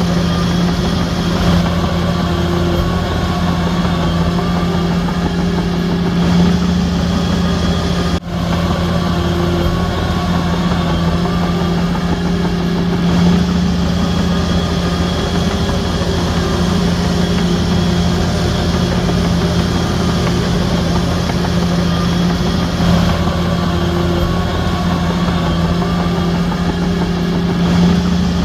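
Heavy diesel engine of a Shantui DH17C3 crawler bulldozer running steadily at work: a constant deep drone with a faint whine rising and falling above it. The sound drops out briefly about eight seconds in.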